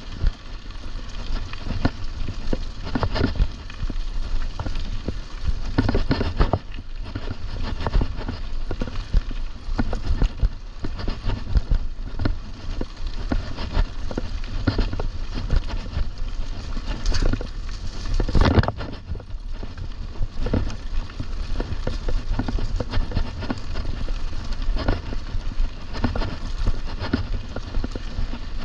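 A mountain bike riding over rough trail, with a constant low rumble and frequent knocks and rattles from the bike jolting over bumps. There is a heavier cluster of knocks about two thirds of the way in.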